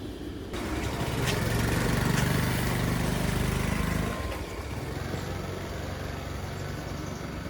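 An engine running: it is louder for about three seconds from a second in, then drops to a quieter, steady running.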